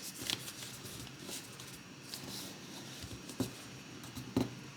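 Origami paper being folded in half and creased: quiet rustling with a few short crisp taps as the folds are pressed down.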